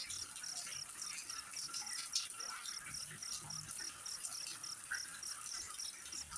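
A cricket chirping steadily, about three short chirps a second, over a steady high hiss.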